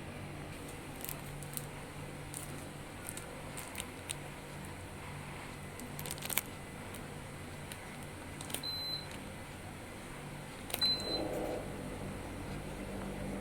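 Midea mini-split air conditioner's indoor unit giving two short, high beeps about two seconds apart, the acknowledgement it gives when it receives a remote-control command. Scattered sharp clicks and a low steady hum run underneath.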